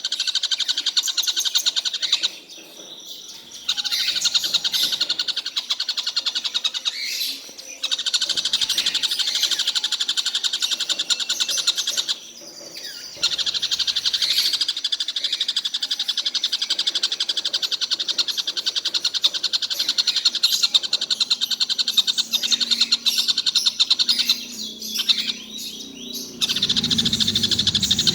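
A caged tengkek buto (stork-billed kingfisher) calls almost without a break in a fast, high-pitched chatter. It stops for about a second three times, and again briefly near the end.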